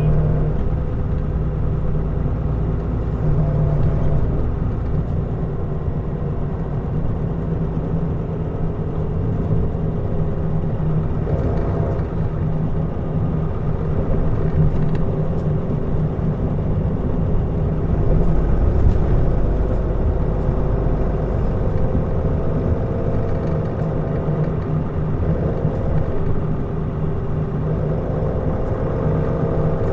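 Mitsubishi Fuso Aerostar QKG-MP35FP city bus driving along, its diesel engine running steadily with road noise; the engine note shifts a few times, around the middle and near the end.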